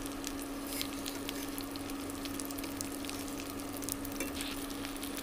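Stuffed capsicums sizzling and crackling as they shallow-fry on high heat in mustard oil in a kadhai, with the spoon scraping and turning them against the pan. A steady low hum runs underneath.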